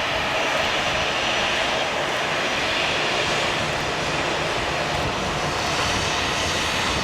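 Jet airliner's engines running, a steady loud rush of noise with a faint high whine.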